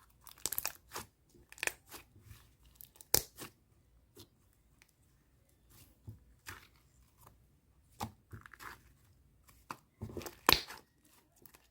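White slime being squeezed and stretched by hand, giving irregular crackling snaps and squishes with short quiet gaps; the sharpest snaps come about 3 seconds in and near the end.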